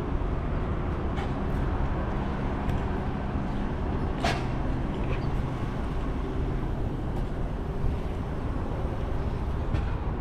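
An engine running steadily at idle, with a short hiss about four seconds in.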